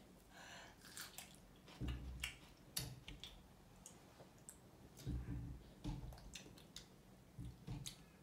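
Faint crunching and chewing of raw cucumber, with scattered light clicks and taps as cucumber pieces are picked from a steel bowl, and a few soft low thumps.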